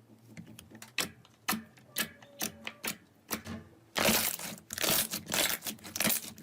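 Slime being pressed and squeezed by hand, giving scattered sharp clicks and crackles, then a denser run of loud crackling from about four seconds in.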